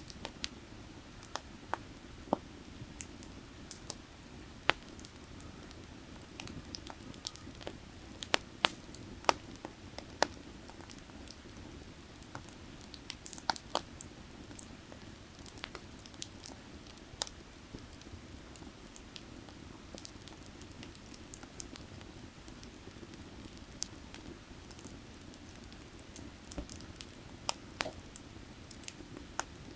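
Burning firewood crackling, with irregular sharp pops and snaps, over the steady low rush of a creek.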